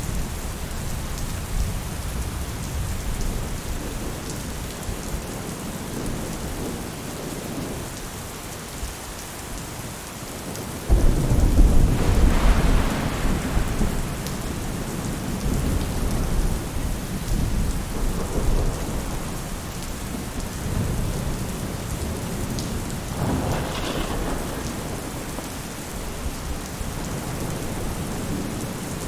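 Steady rain falling on a roof. A sudden, loud low rumble of thunder breaks in about eleven seconds in and fades over a few seconds, and a weaker rumble follows about twelve seconds later.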